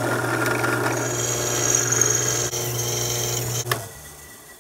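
Drill press running, its bit cutting a hole through an aluminium plate: a steady motor hum under a rough cutting noise, with a high whine joining about a second in. It cuts off suddenly with a click near the end.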